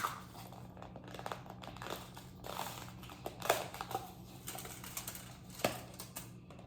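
Close-up eating sounds: chewing, with scattered crinkling and short clicks.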